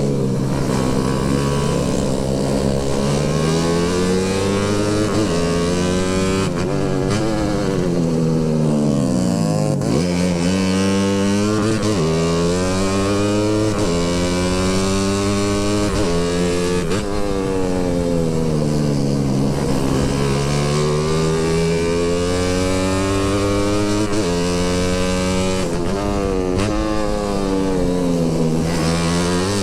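Motorcycle engine running while riding, its pitch falling and rising smoothly again and again as the rider eases off and accelerates.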